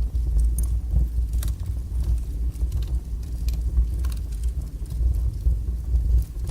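Wood fire burning strongly in a fireplace: a steady low roar of flames with frequent sharp crackles and pops from the burning logs.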